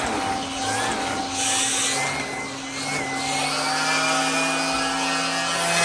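Vacuum cleaner running steadily: a motor hum with several whining tones that drift slightly in pitch, and a brief burst of hiss about a second and a half in.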